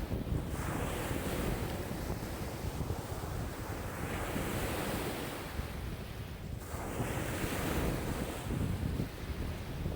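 Wind-driven waves breaking and washing on a lakeshore in a strong wind, with wind buffeting the microphone as a constant low rumble. The hiss of the surf swells and fades every few seconds as waves come in.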